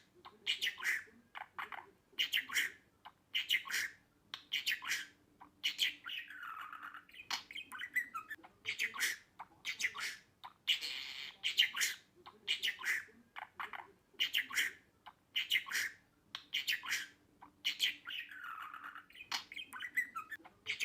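Budgerigar chattering in a fast run of squawks, chirps and warbles. The same short stretch of calls seems to repeat about every twelve seconds.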